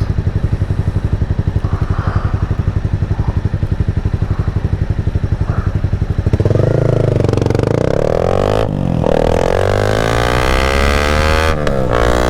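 Yamaha MT-07's 689 cc parallel-twin engine idling with an even, lumpy pulse. About six seconds in it pulls away, revving up through the gears, and the note breaks off briefly twice as it shifts up.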